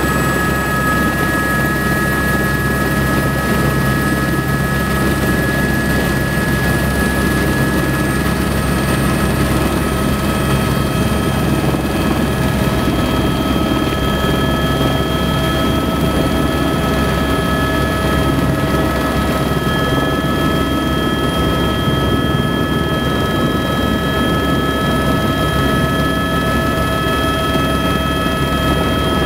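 Helicopter turbine engine and rotor running steadily and loudly, with a constant high whine over the rotor's low drone.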